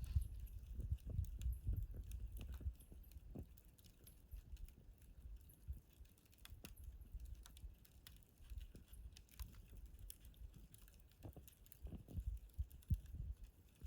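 Wood campfire crackling in a fire pit, with scattered sharp pops and ticks and a low rumble underneath that is strongest in the first few seconds and again near the end.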